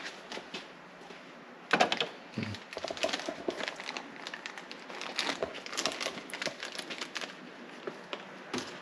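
Crinkling and rustling with scattered light clicks and knocks, from a new cartridge oil filter being handled and unpacked from its box. The noises start about a second and a half in and come irregularly after that.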